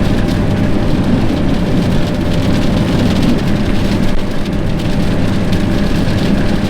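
Vehicle driving through a rainstorm: a steady engine hum and road noise, with a constant hiss of rain on the vehicle.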